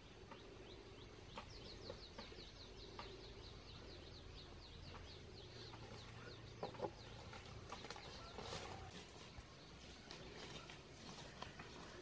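Faint outdoor quiet with a small bird singing a fast run of short, falling chirps, about six a second, for several seconds, then scattered soft rustles and ticks.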